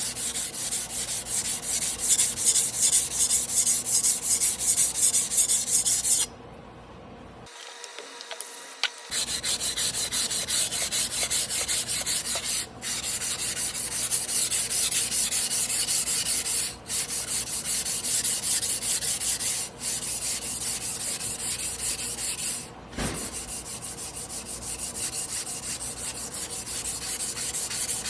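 A Tojiro Damascus carbon-steel yanagiba being stroked back and forth by hand on a whetstone, a fast, even scraping run of steel on stone. It goes quieter for a couple of seconds about six seconds in, then the strokes resume.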